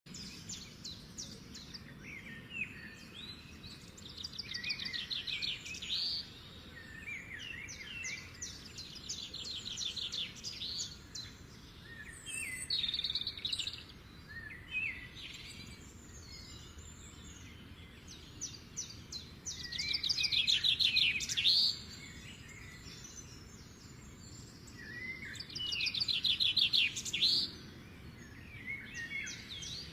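Songbirds singing: repeated short phrases of fast, high trills with chirps between them, coming every few seconds, with two louder phrases about two-thirds of the way through and near the end.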